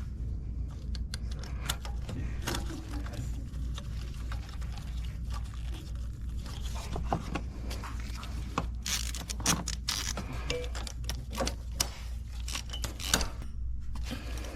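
Irregular metallic clicks and scrapes of hand tools at work in an engine bay while spark plugs are being changed, denser in the second half, over a steady low hum.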